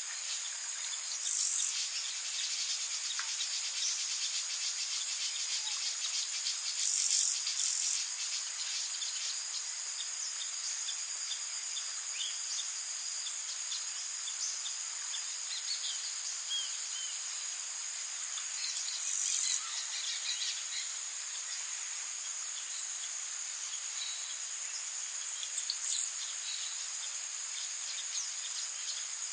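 Tropical rainforest ambience: a steady high-pitched insect chorus, with faint scattered bird chirps and five brief louder surges of buzzing.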